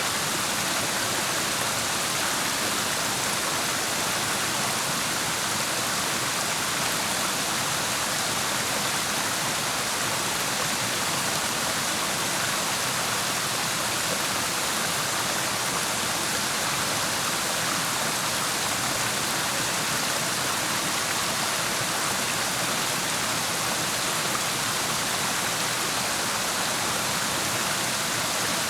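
Rushing water of a clear mountain stream, a steady, even hiss with no change in level.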